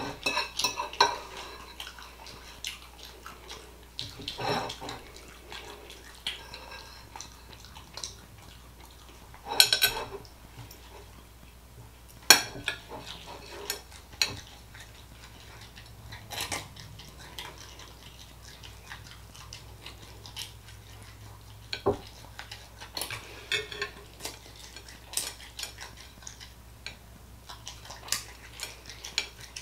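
Cutlery clinking and scraping against a plate as food is eaten, in irregular sharp taps a few seconds apart.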